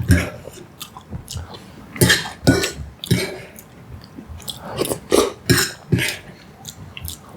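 Close-miked mouth sounds of a person eating: a string of short, irregular bursts.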